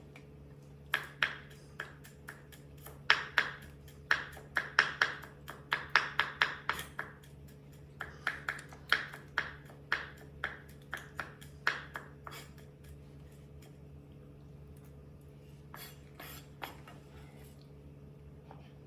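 A knife working on a plate or dish while meat is cut: a run of sharp metallic clicks and taps, a few a second, thinning out after about twelve seconds, with a few more taps later. A steady low hum runs underneath.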